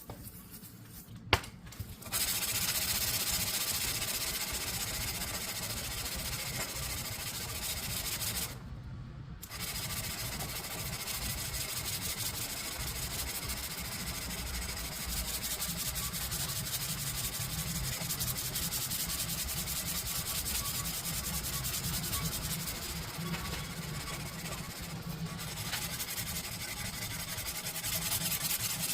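Steady abrasive sanding on a steel blade, stopping briefly about eight seconds in, after a single sharp click near the start.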